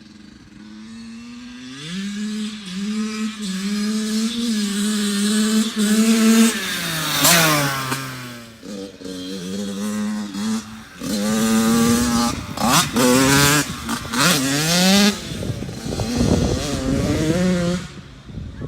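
Yamaha YZ85 two-stroke dirt bike engine being ridden: it revs up with stepped climbs in pitch, falls away about seven seconds in, then rises and drops off several times in quick succession.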